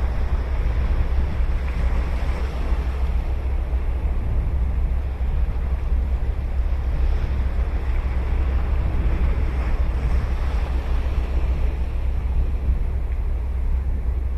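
Ocean waves breaking and washing up the beach in a steady rush, under a low rumble of wind on the microphone.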